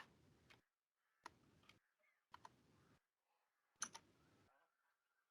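A few isolated computer keyboard key presses, about four spaced out, the last and loudest near four seconds in, with near silence between them.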